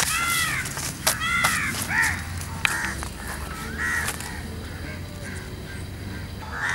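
Birds calling: a string of short arching calls in the first four seconds, then fewer, over a steady low background hum, with a few sharp clicks among the calls.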